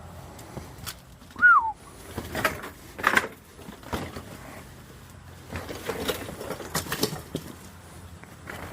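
Irregular knocks, clunks and rustling of junk being handled and moved during a shed cleanout. About a second and a half in, one short whistle-like tone slides down in pitch.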